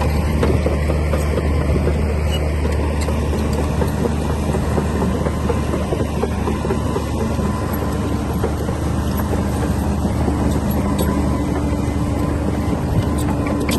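Komatsu D60P crawler bulldozer's diesel engine running steadily as the machine works, its note shifting a little about eight seconds in, with scattered clicks and clanks from the machine.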